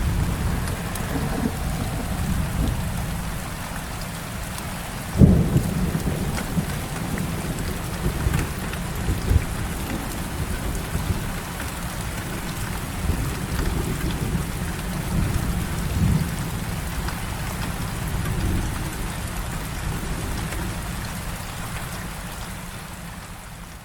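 Heavy rain falling steadily, with thunder rumbling low underneath. A sharp, loud thunderclap breaks about five seconds in, and the rumble slowly fades toward the end.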